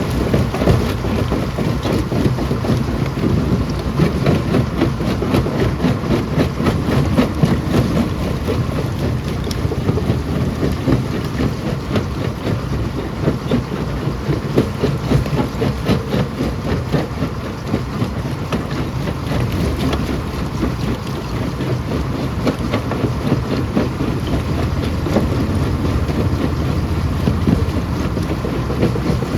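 Stone crusher running, a continuous heavy rumble with many sharp, irregular knocks and cracks of rock being broken inside it.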